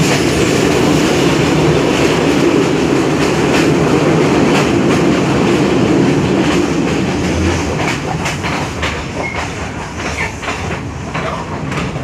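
Sri Lanka Railways class S12 diesel multiple unit running at speed, heard from on board: a loud steady rumble of wheels on rails with clickety-clack over the rail joints. The clicks stand out more plainly in the last few seconds as the rumble eases slightly.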